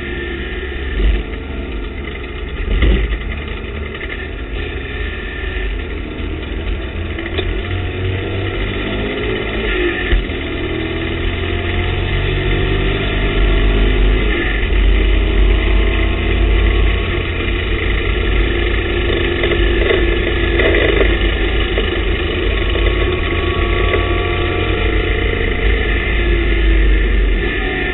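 TVR Tuscan race car engine heard from inside the cockpit, pulling hard under racing throttle, its pitch climbing again and again as it accelerates through the gears and getting louder about halfway through. Two sharp thumps stand out in the first three seconds, with another about ten seconds in.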